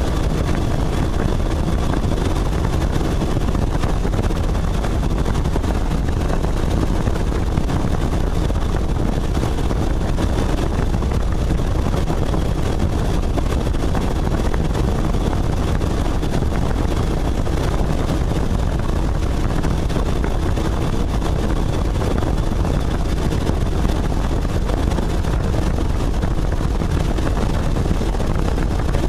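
Helicopter in flight, its rotor and engine noise loud and constant throughout.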